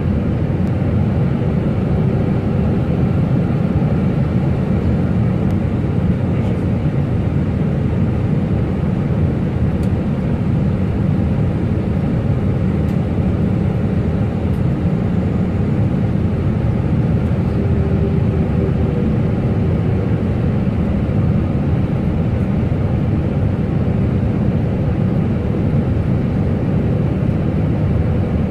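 Steady engine and airflow noise of an airliner heard inside its cockpit. It is a constant low rumble that stays even in level throughout.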